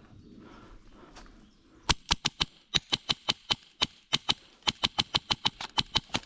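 Airsoft replica firing rapid shots: a string of sharp clicks, about five or six a second in uneven bursts, starting about two seconds in after faint rustling.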